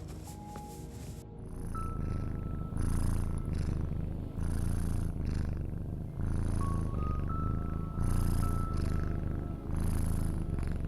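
Domestic cat purring close up, a low rumble swelling and fading with each breath about every second and a half to two seconds, getting louder about a second in. Faint soft sustained music notes sound over it.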